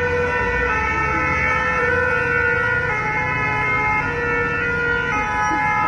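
An ambulance's two-tone siren alternating between a high note and a low note, over the low rumble of road traffic.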